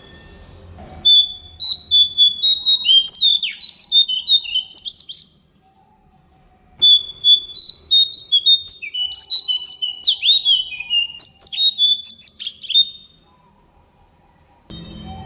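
Jongkangan (cingcoang) songbird singing: two long bouts of fast, clear, high whistled notes mixed with quick downward slurs, separated by a short pause.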